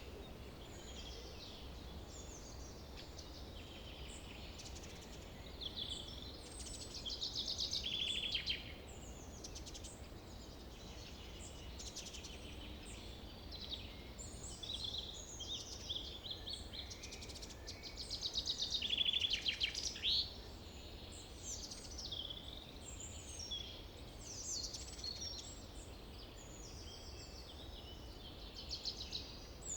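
Several small birds chirping and twittering, with short trills; the loudest bursts come about seven seconds in and again around nineteen seconds, over a low steady background rumble.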